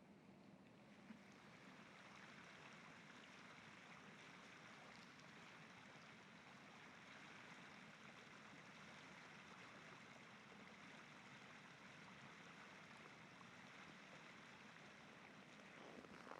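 Faint, steady rushing of the rapids on an ice-bound river, with no footsteps over it.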